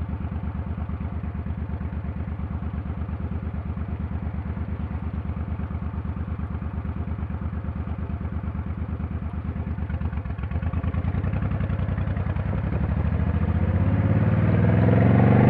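Motorcycle engine ticking over with an even, pulsing beat, then picking up from about two-thirds in, getting louder and higher in pitch as it accelerates.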